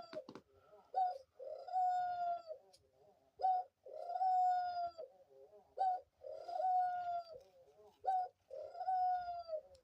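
Pet dove cooing close by: four two-part coos, each a short note followed by a longer held one, repeating about every two and a half seconds.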